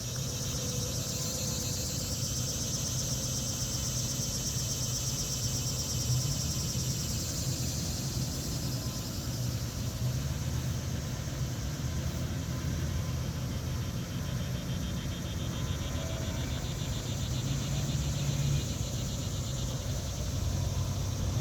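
GE diesel locomotives of a slow-moving BNSF freight train approaching, a steady low engine rumble.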